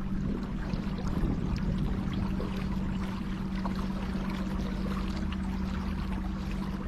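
Steady hum of a battery-powered electric motor driving a kayak, with water splashing and trickling against the hull.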